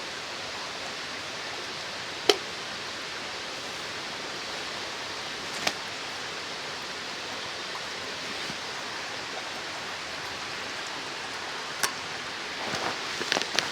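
Steady rushing of a mountain stream, broken by three sharp single snaps, with rustling starting near the end.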